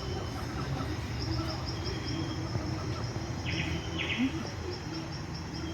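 Outdoor ambience with small birds chirping repeatedly, and two short calls close together about three and a half seconds in.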